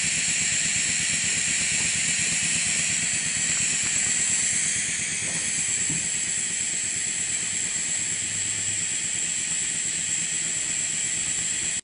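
Maxwell Hemmens model colliery steam engine running on compressed air, its exhaust making a steady high hiss. The hiss eases slightly about five seconds in and stops abruptly at the end.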